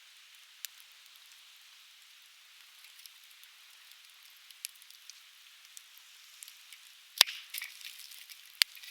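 Conifer firewood burning and crackling, with scattered small snaps over a steady hiss and two sharp, loud pops about a second and a half apart near the end.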